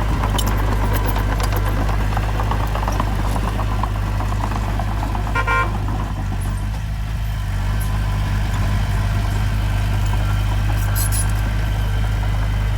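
Heavy diesel engine of earthmoving machinery running steadily with a low drone, with rattling clanks over the first few seconds and a short horn toot about halfway through.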